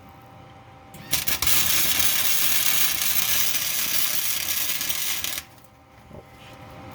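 Wire-feed welder making a tack weld on steel. The arc strikes about a second in with a few crackles, then runs as a steady crackling hiss for about four seconds and stops abruptly.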